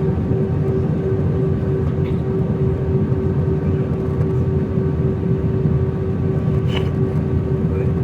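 Steady cabin noise inside an Airbus A319 in flight: a constant low rumble of airflow and engines with a steady hum held on one note.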